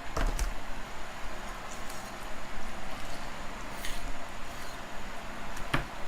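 Faint knife work on a raw whole chicken: a knife slicing through the skin of a leg quarter on a cutting board, with a few light clicks.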